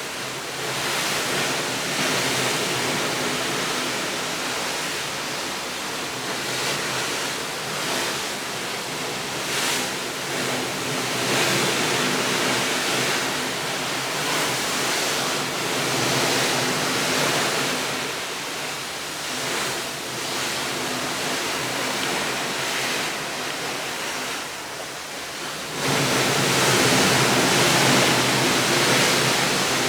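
Steady rushing noise that swells and eases every few seconds, turning louder and brighter about 26 seconds in.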